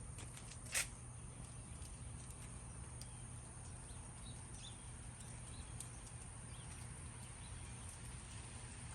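Light rain falling steadily, with scattered drips ticking and a low steady hum underneath. One sharp click just under a second in is the loudest sound.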